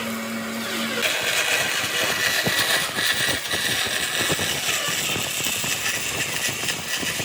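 A power tool running under load. About a second in, its sound changes from a pitched whine with a steady hum to a dense, rough hiss with irregular scraping.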